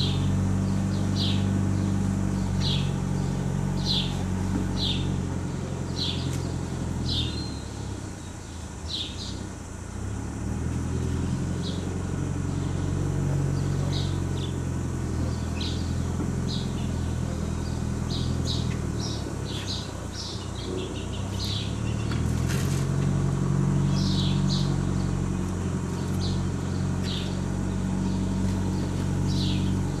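A bird calling in short, high chirps, roughly once a second with a few pauses, over a low steady hum that swells and fades.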